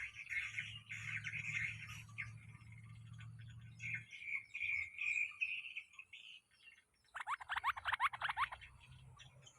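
Wild bulbuls chirping and chattering, with drawn-out notes in the middle and a fast burst of rising notes about seven seconds in. A low hum sits under the first four seconds.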